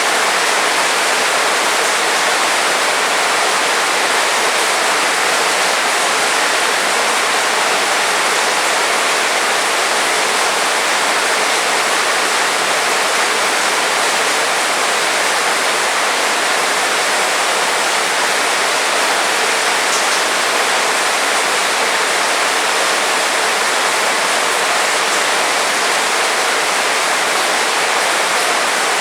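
Heavy rain falling in a steady, dense hiss with no let-up.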